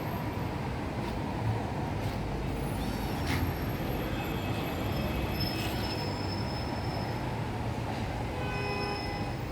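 A steady low rumbling noise, with faint high-pitched tones coming and going over it.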